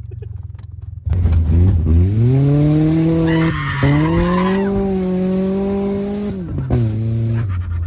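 1995 Mazda's Ford engine revving hard: it climbs steeply from about a second in, holds high revs, and drops back about six and a half seconds in. The tires squeal briefly about three and a half seconds in.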